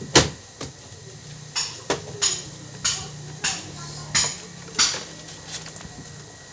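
Repeated sharp metallic knocks, about ten of them at roughly half-second to one-second intervals, as metal parts of a washing machine gearbox assembly are tapped and fitted, over a faint steady low hum.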